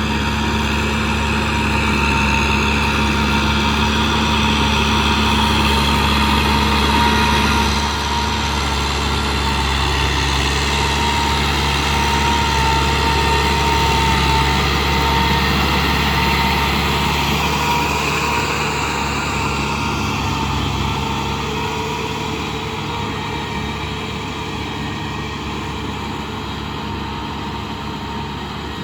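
Kubota M6040 tractor's diesel engine running steadily. Its low note shifts about eight seconds in, and the sound slowly fades over the last several seconds.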